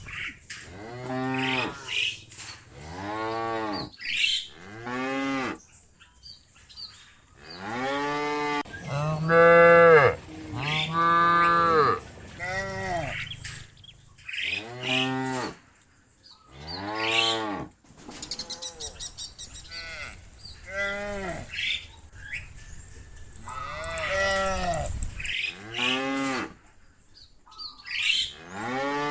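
Cows mooing over and over, a long string of short calls that each rise and fall in pitch, the loudest two coming about ten seconds in.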